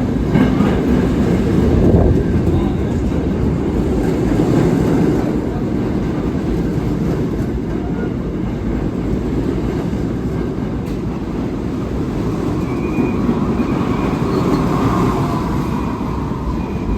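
Vintage New York City subway train running on the rails, a steady heavy rumble of wheels and cars throughout. A faint high squeal comes in and out near the end.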